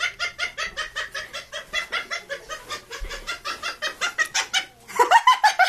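Parrot giving a fast run of short, repeated clucking calls, about five a second, turning louder and lower in the last second.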